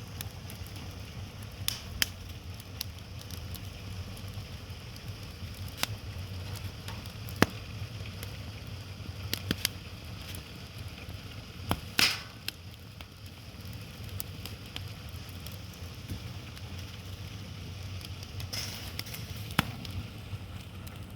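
Wood fire crackling, with scattered sharp pops of the burning firewood, one louder pop about halfway through, over a steady low hum.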